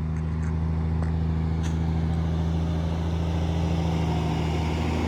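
Detroit Diesel Series 60 inline-six diesel in a Kenworth T800 dump truck running steadily, with a faint tick or two in the first couple of seconds.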